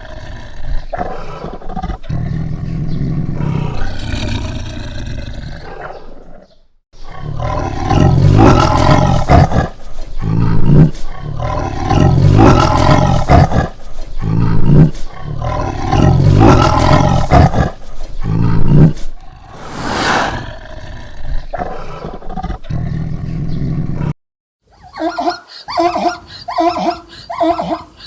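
Big cat roaring and growling in long loud bouts. Near the end, a different animal's short calls repeat about twice a second.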